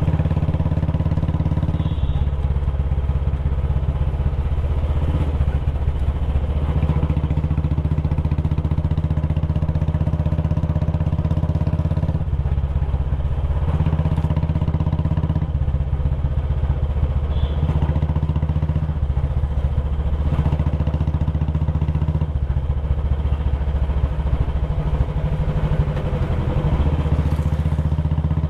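Royal Enfield Bullet Classic 350 single-cylinder engine and exhaust running under way on the road. Its note steps up and down several times as the throttle changes.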